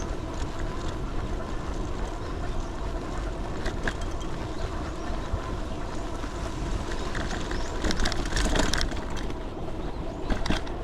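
Steady wind and road noise from riding, with short louder rattling bursts about eight seconds in and again near the end.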